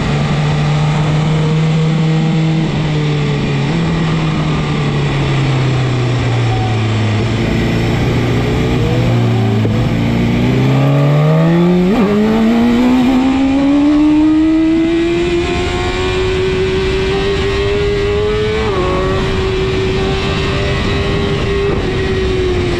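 BMW S1000RR superbike's inline-four engine at low, steady revs. About halfway through it revs up sharply and keeps climbing for several seconds, then holds and eases off near the end.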